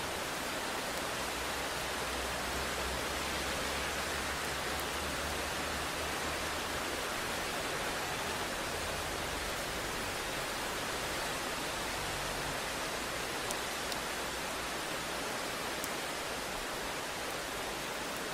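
Steady rain, an even hiss, with a low rumble underneath that is stronger in the first half and fades about halfway through.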